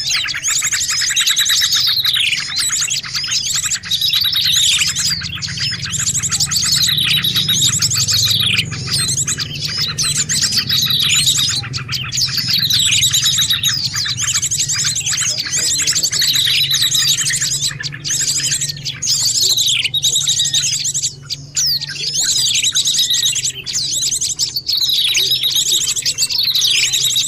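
Small songbird calls from a bird-lure (pikat) recording: dense, rapid high chattering trills broken by quick downward-sweeping notes, in a phrase that repeats about every two seconds. A low steady hum runs underneath.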